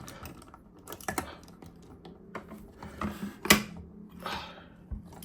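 Plastic action figures being handled and set down on a surface: scattered light clicks and taps, the sharpest about three and a half seconds in, as the figures are repositioned to make them stand.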